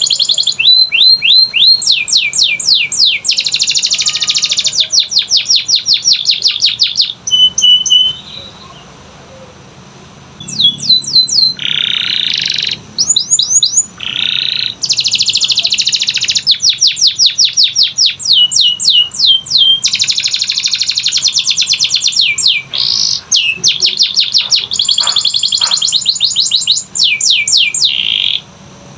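Canary singing: loud rapid trills and rolls of quickly repeated sweeping notes, broken by a pause about eight seconds in and again near the end.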